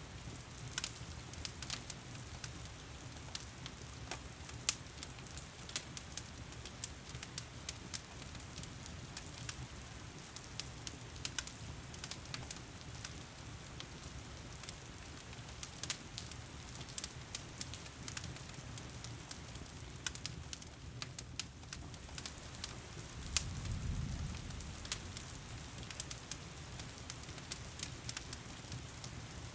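Wood fire crackling in a fireplace, with frequent irregular pops and snaps, over the steady hiss of heavy rain. A low rumble swells briefly about two-thirds of the way through.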